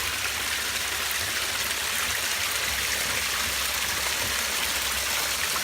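Steady rush of running water from a stream or small waterfall.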